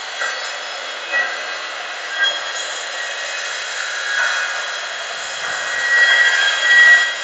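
Circular saw running and crosscutting a 1x8 wooden board: a steady high whine that grows louder near the end as the blade works through the cut.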